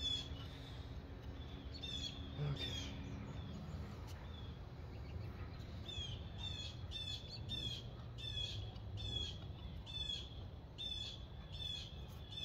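A bird calling with short, high chirps: a couple about two seconds in, then a steady run of roughly two a second from halfway on, over a low, steady background rumble.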